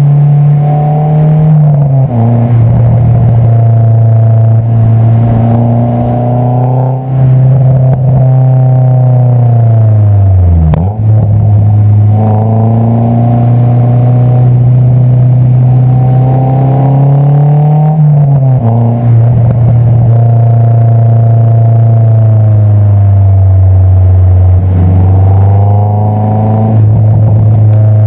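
Honda S2000's inline-four engine through an Invidia Q300 exhaust, heard close at the tailpipe while the car is driven. The exhaust note holds steady between gear changes, dropping in pitch about two seconds in and again near eighteen seconds, with a deep dip and recovery near eleven seconds and a climb in pitch near the end.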